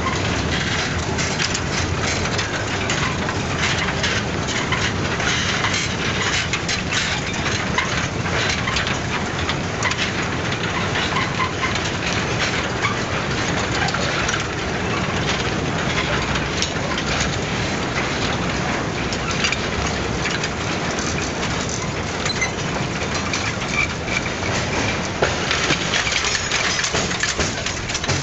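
Narrow-gauge freight train rolling along the track, its wagons clattering and rattling in a steady, dense run of knocks and cracks.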